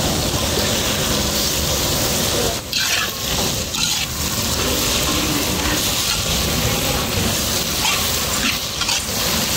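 Sliced onions, green chillies and curry leaves sizzling in hot oil in a large iron kadai, stirred with a metal ladle that scrapes the pan a few times around three to four seconds in.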